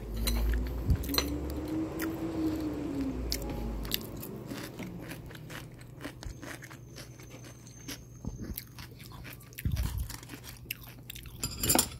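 Close-miked crunching and chewing of crispy fried chicken, with many short crackles of the crust. A low hum rises and falls over the first few seconds, and there is a louder crackle near the end.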